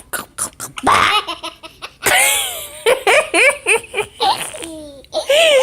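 A young child laughing hard in a string of short, high-pitched bursts.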